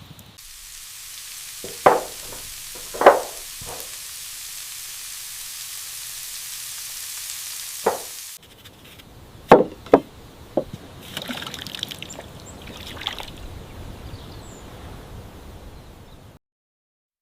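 A series of sharp knocks, about seven, spread unevenly over a steady hiss, with faint high chirps in between. Everything cuts off suddenly to dead silence near the end.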